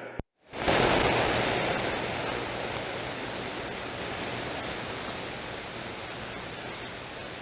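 CB radio receiver static: a steady rushing hiss of band noise between transmissions, starting about half a second in after a brief silence and slowly fading.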